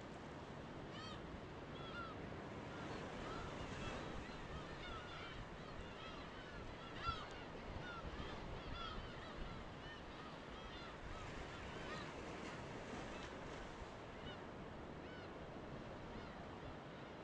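A flock of birds calling over and over in short, arched, honking notes, over a steady wash of surf. There is a single brief click about seven seconds in, and the calls thin out near the end.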